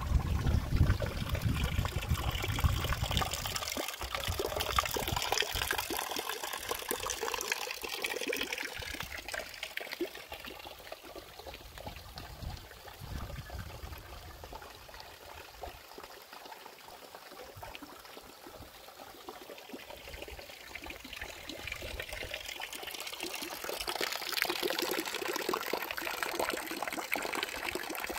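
Rain falling with rainwater pouring and trickling. It is heaviest in the first few seconds, eases off through the middle, and builds again near the end.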